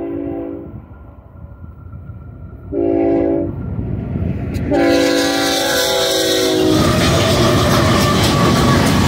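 BNSF freight locomotive air horn sounding a chord: a long blast ends just under a second in, then a short blast about three seconds in and a long blast from about five seconds. Then the lead GE diesel-electric locomotives pass close, their engines and steel wheels on the rails loud and steady to the end.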